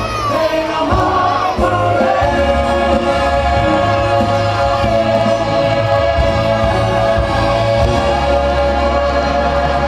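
Music with a choir of voices singing over a steady low bass.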